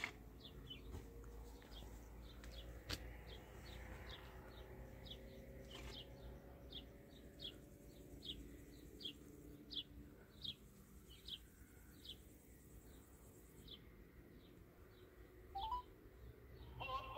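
A small bird chirping over and over, a short falling chirp about twice a second, faint over a low hum, with one sharp click about three seconds in.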